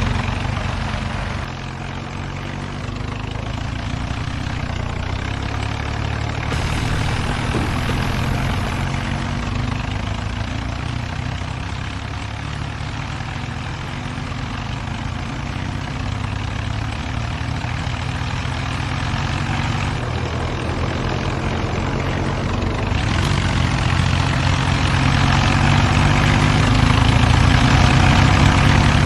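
Diesel tractor engines running hard under heavy load, pulling against each other in a tractor tug-of-war. The engine sound is steady and grows louder over the last several seconds.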